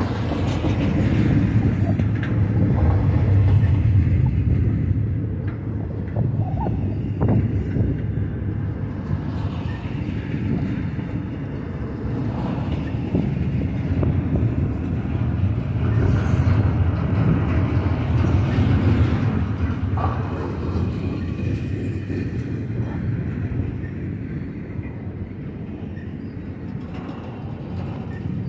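Double-stack intermodal well cars of a freight train rolling past: a steady rumble of steel wheels on rail that swells and eases, with a few sharp clanks and knocks.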